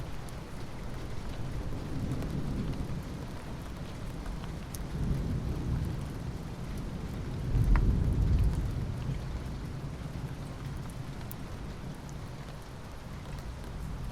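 Steady rainfall with low rolling rumbles of thunder, the loudest rumble swelling and fading about halfway through.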